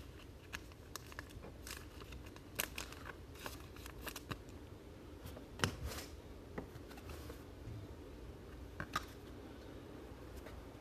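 Faint rustling and scattered light clicks of trading cards being handled and flipped through, with a few sharper ticks.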